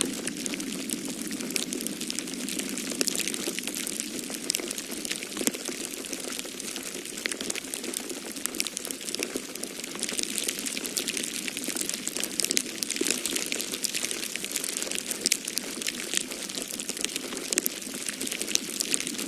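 Wood fire crackling in a fireplace: a dense, irregular run of small pops and snaps over a steady rushing noise.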